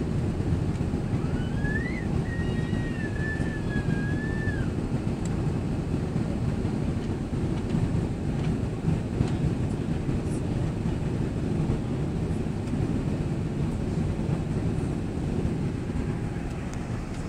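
Steady low rumble of a Boeing jet airliner heard inside the cabin: engine and airflow noise. A faint wavering high tone runs from about one to five seconds in.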